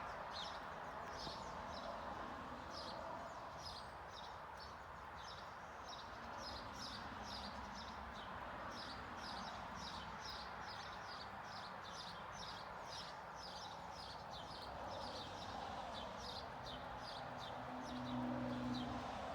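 Finches chirping continuously, many short high chirps a second, over a steady background hiss. Near the end a brief low hum is the loudest sound.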